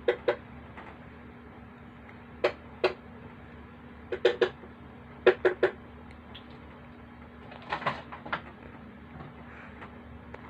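Sharp taps or knocks in small clusters of two or three, a second or two apart, over a faint steady hum.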